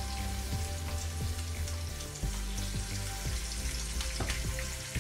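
Flour-battered shrimp frying in hot oil in a frying pan: a steady sizzle with scattered crackles and pops. Background music with a low bass line plays underneath.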